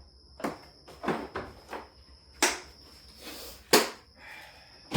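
A series of separate metal clanks and knocks from hand tools being handled and set down, about eight in all, the loudest about two and a half and almost four seconds in.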